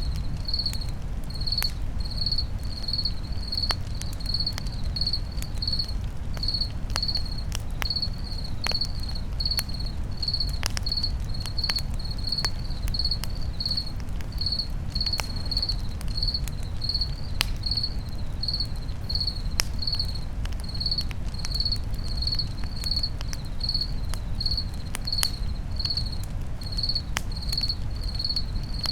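Crickets chirping steadily, about two chirps a second, over a campfire crackling with scattered sharp pops and a low steady rumble.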